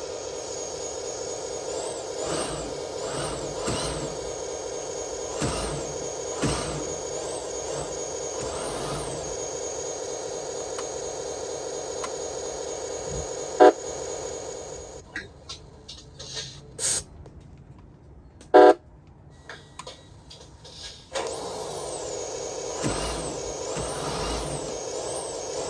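Electronic sound module of a 1/14 RC truck playing a simulated truck engine through its small speaker, running with revs that rise and fall and a high whistle that rises and falls over it. About halfway through the engine sound stops for several seconds, broken by a few short loud blips, then it starts up again.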